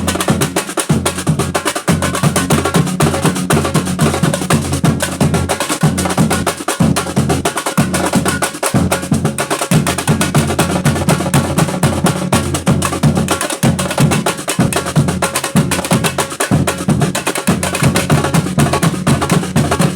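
Batucada percussion ensemble playing a steady, fast groove: deep surdo-type bass drums under dense, rapid strokes on snares and higher drums, with no let-up.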